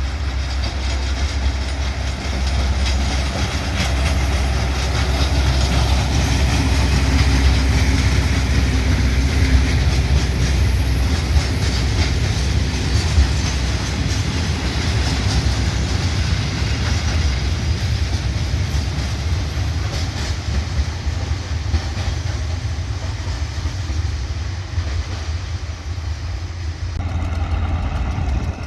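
A train running past, with a steady low rumble and wheels clicking over the rail joints. Near the end the sound changes abruptly to a steadier engine tone.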